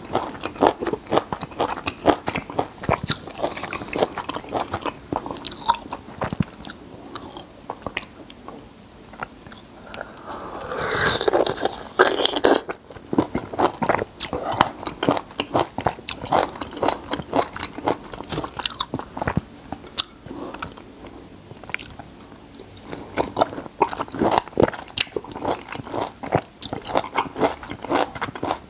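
Close-miked biting and chewing of raw peeled citrus flesh (lemon and lime), a run of many small crunchy clicks, with a louder, longer crunchy stretch about eleven seconds in.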